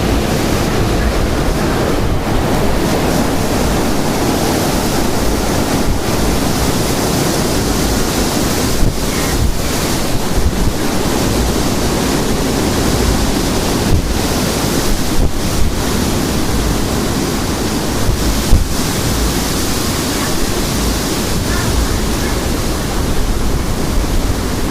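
Very high winds, described as 60 to 70 mph, buffeting the microphone: a loud, steady rush with a deep rumble and brief gusts.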